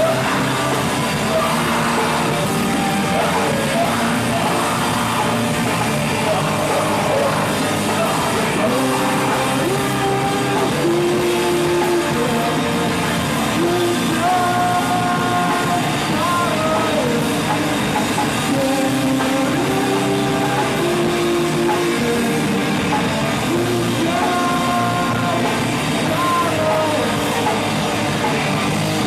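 Live rock band playing loudly, with electric guitars, drums and a singer holding long sung notes.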